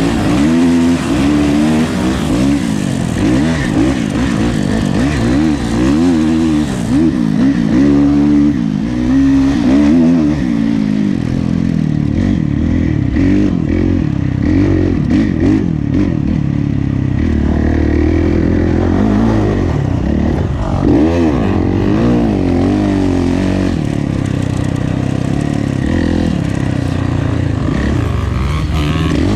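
Kawasaki KX450F four-stroke single-cylinder motocross engine revving hard and falling off again and again as the bike is ridden through the gears. About halfway through, short knocks and rattles from the bike join in.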